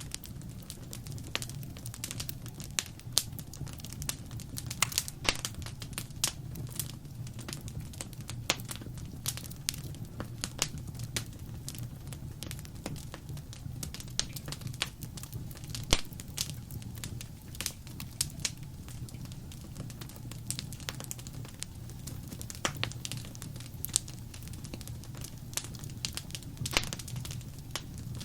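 Wood fire crackling in a fireplace: irregular sharp snaps and pops, a few louder ones, over a steady low rumble of the burning fire.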